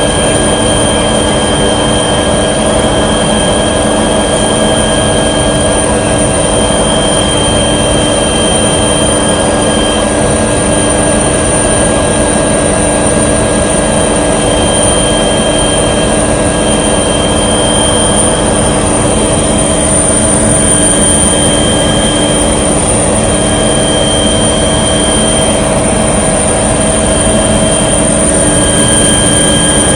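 Steady, loud drone of a small aircraft in flight, heard from inside the cabin: a constant rushing noise with several unchanging whining tones over it.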